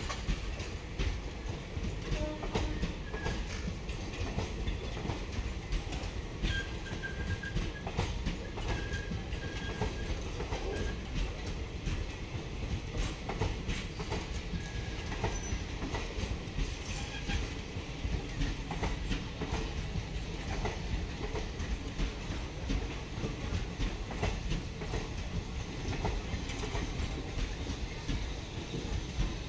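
Indian Railways express passenger coaches rolling past, their wheels clattering steadily over the rail joints with a continuous low rumble.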